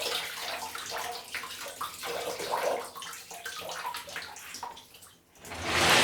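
Water sloshing and splashing around a container of bulk Lego bricks being washed by hand, in uneven surges. It drops away briefly about five seconds in, then comes back as a loud rush of water near the end.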